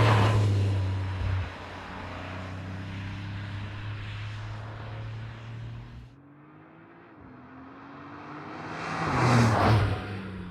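Porsche 911 Turbo S (992.2) twin-turbo flat-six under hard acceleration, easing to a steadier, quieter pull after a second or so. It drops off sharply about six seconds in, then surges loudly again near the end with a brief dip, like a gearshift, just before the close.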